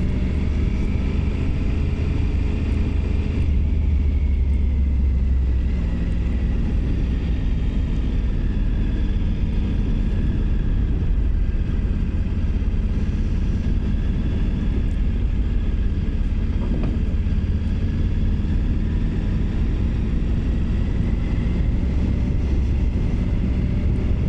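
Triumph Tiger 900 Rally Pro's three-cylinder engine running steadily under way, a deep low rumble with road and air noise over it.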